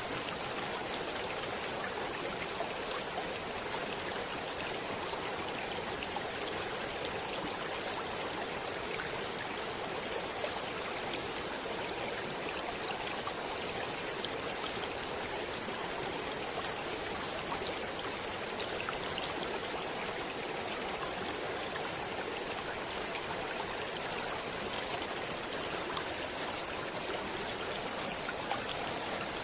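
Flowing stream water: a steady rushing and babbling.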